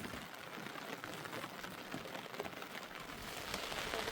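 Steady rain falling, with many small drops pattering on a surface, getting a little louder near the end.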